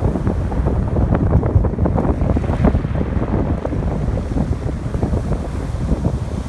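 Strong wind buffeting the microphone, with ocean waves washing onto the shore underneath.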